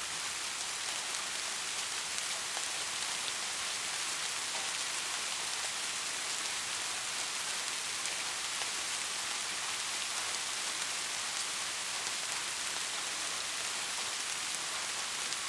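Steady rain, an even hiss with a fine patter of drops, holding the same level throughout.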